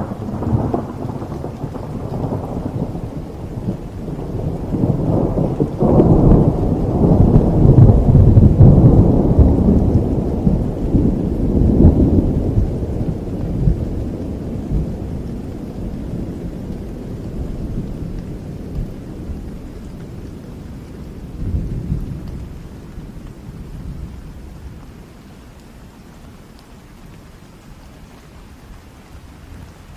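A long roll of thunder over steady rain: it breaks in suddenly, swells to its loudest several seconds in, rumbles with a few renewed peaks, and fades slowly over about twenty-five seconds, leaving the rain hiss.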